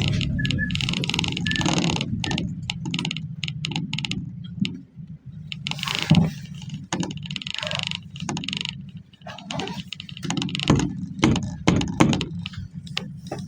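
Inside a moving GAZ minibus: a steady low drone of engine and road with many irregular clicks, knocks and rattles, the loudest about six seconds in.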